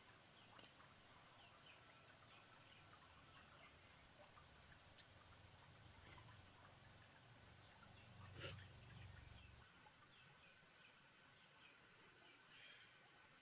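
Faint rural ambience: a steady high insect drone with scattered short bird chirps, and one sharp click a little past the middle.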